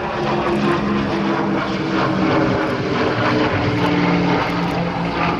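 Lockheed P-38 Lightning's twin turbocharged Allison V12 piston engines running in flight, a steady propeller drone with a thick stack of engine tones.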